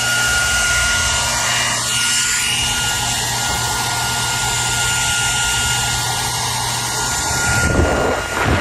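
Hair dryer running steadily: a loud, even rush of air with a steady motor whine and a low hum. Near the end the sound shifts, losing its hiss and turning uneven.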